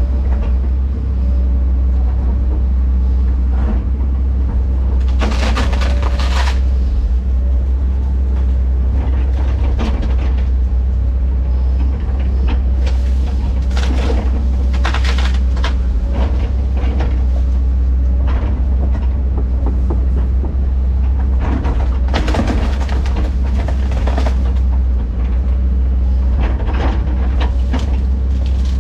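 Diesel engine of heavy earthmoving equipment running steadily under load, with repeated bouts of clanking, scraping and cracking as the machine works dirt and brush.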